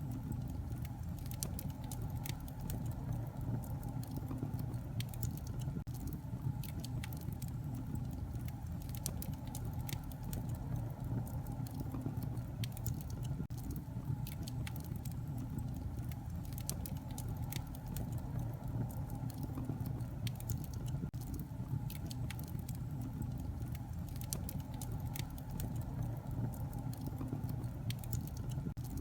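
Wood fire burning in a fireplace, crackling: a steady low rumble of flames with irregular sharp pops and snaps throughout.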